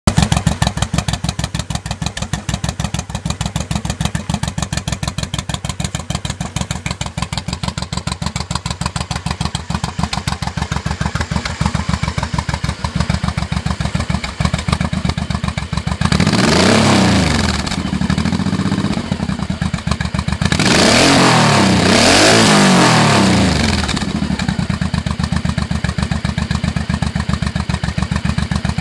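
Honda Shadow 1100's V-twin engine, breathing through Jardine slip-on mufflers, idling with an uneven, loping pulse. About halfway through it is revved up and let fall once, then blipped twice more in quick succession before settling back to idle.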